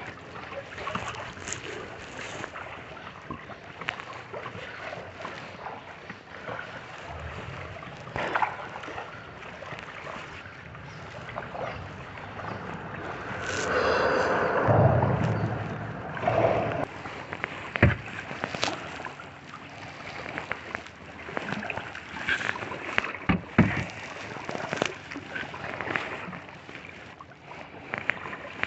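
Kayak paddling on a lake: water splashing and sloshing around the paddle and hull, with scattered sharp knocks and a louder rushing stretch about halfway through.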